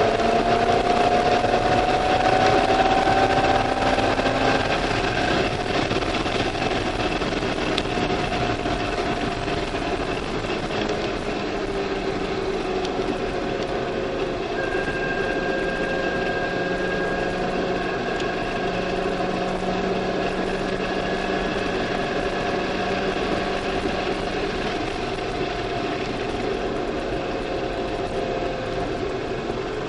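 Chevrolet C5 Corvette Z06's 5.7-litre LS6 V8, heard from inside the cabin while lapping a race track. Its note rises under acceleration for the first few seconds, then eases back and runs steadier and a little quieter.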